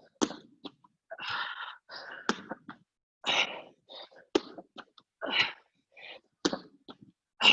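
A person breathing hard during a fast interval exercise, with short forceful exhales about once a second and a few sharp thuds between them.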